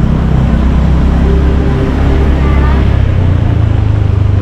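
Motorcycle running on the road, with wind buffeting the microphone as a heavy, steady low rumble that shifts in pitch about three seconds in.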